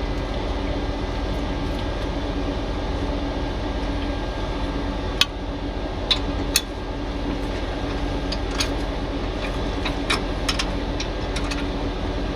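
A diesel truck engine idling steadily with a low hum, with a scattering of short, sharp metallic clicks and taps from an air fitting being taken out and a new one fitted at the truck's air dryer.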